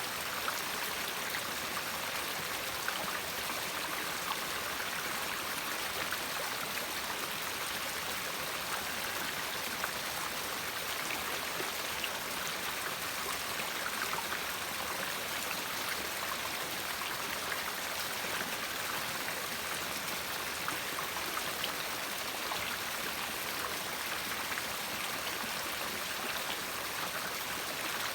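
River water flowing steadily over stones in a constant rushing noise, with faint small splashes and trickles.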